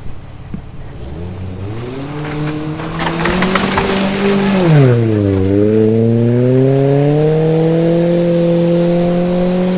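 Car engine, a Ford engine in a 1995 Mazda, revving up with a rough crackle. It drops back sharply about five seconds in, then climbs again and holds at high revs. The engine is running hot and poorly, which the owners blame on a stopped-up catalytic converter.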